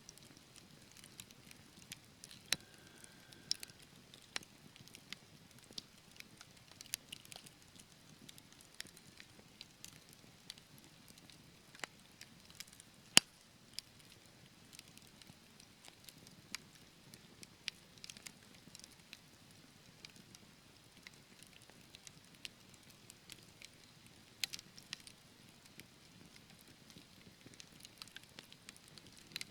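Wood fire burning in a fireplace: soft hiss of the flames with irregular crackles and pops from the burning logs, one sharp loud pop about halfway through.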